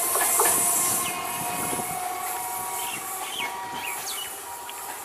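Indian Railways electric multiple unit (EMU) train running along the track. A loud rushing noise eases about a second in, and a steady electric whine continues beneath it.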